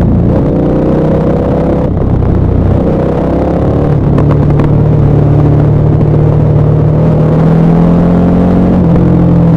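KTM 1190 Adventure R's LC8 V-twin engine, through a Wings aftermarket exhaust, rising in pitch under throttle with short breaks about two and four seconds in, as at gear changes. It then runs at a nearly steady engine speed.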